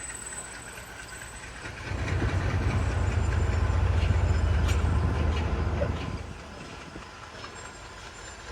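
Passenger train running, heard from on board: a low rumble swells about two seconds in, holds for about four seconds, then dies back down.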